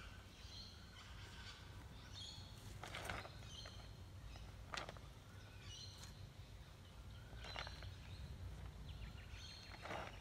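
Faint outdoor ambience with short, repeated bird chirps, along with a few sharp knocks or taps a couple of seconds apart over a low steady rumble.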